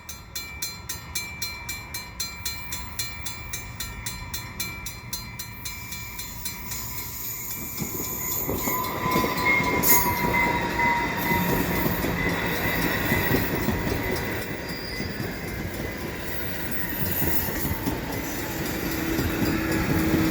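An Exo MR90 electric multiple-unit commuter train arriving at the station: a level-crossing bell rings steadily, about two or three strokes a second, for the first several seconds. Then the train's running noise grows from about eight seconds in, with the wheels squealing as it rounds the sharp curve.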